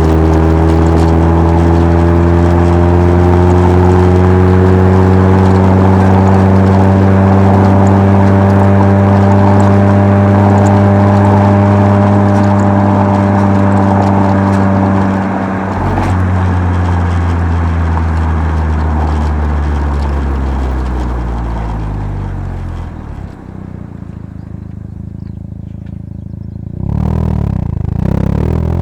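Mazda RX-7 FC3S's twin-rotor 13B rotary engine, heard from inside the car through a Night Sports Legal Sports muffler. It drones at steady revs for about half the time, dips briefly, then falls in pitch as the revs drop off, goes quieter for a few seconds, and picks up again near the end.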